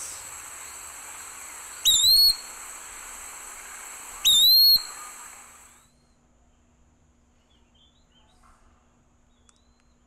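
Eastern wood-pewee calling twice, about two and a half seconds apart: each call is a short whistle that slurs upward and then holds, over a steady recording hiss. The hiss cuts off about six seconds in, leaving near silence.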